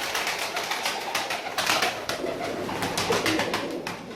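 A room full of domestic pigeons cooing, over a dense run of clicks and rustles.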